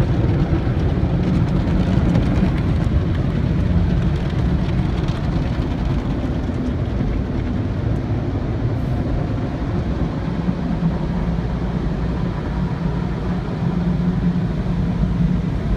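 Automatic car wash machinery running: a loud, steady, low rumble.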